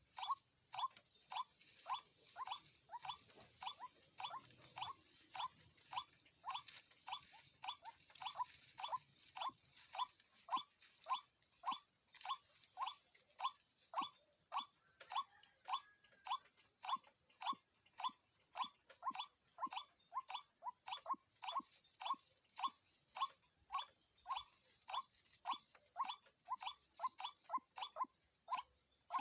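White-breasted waterhen calling: a steady run of repeated short notes, about two a second.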